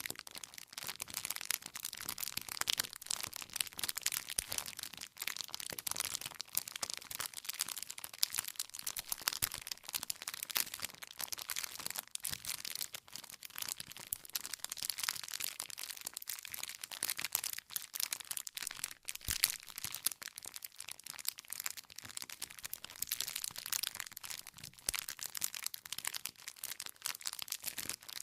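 Wood fire crackling: a dense, continuous stream of small snaps and pops from the burning logs, with a few louder pops, one sharp one about 19 seconds in.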